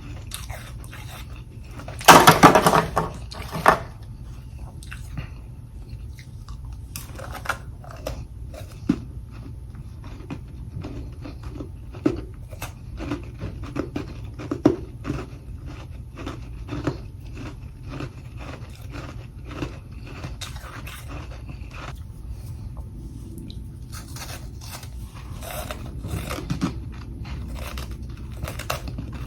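A mouthful of humidifier freezer frost crunched between the teeth: one loud bite about two seconds in, then a long run of short chewing crunches, about one or two a second.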